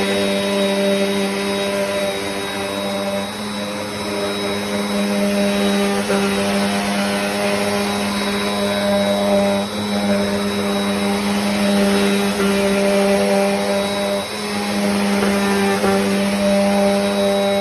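Bissell CleanView Compact upright vacuum running as it vacuums a rug: a steady motor hum with a few light knocks as it is pushed along.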